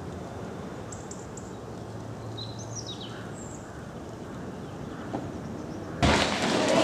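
Outdoor background hum with a few short bird chirps and whistles. Near the end it switches suddenly to a much louder, busy din with sharp taps.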